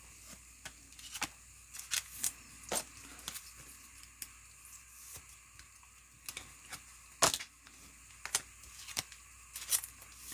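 Trading cards being handled and flipped through by hand, making irregular light clicks and snaps, with one sharper snap about seven seconds in.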